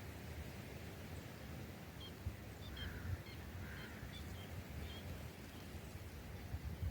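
Birds calling: a run of short, high chirps, joined by a couple of softer, lower calls, over a faint low rumble.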